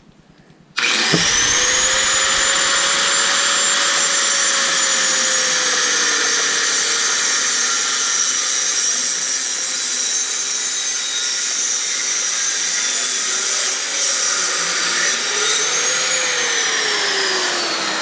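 Electric grinder cutting through a steel motorcycle exhaust pipe. It starts about a second in with a steady whine over the hiss of the cut, the pitch sags slightly as it bites, rises briefly near the end as the load comes off, then glides down as it starts to wind down.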